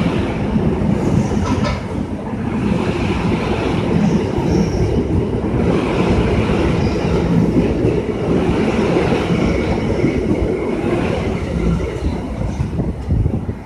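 Train passing close by: a steady, loud rumble of steel wheels running over the rails, with faint high wheel squeal in places.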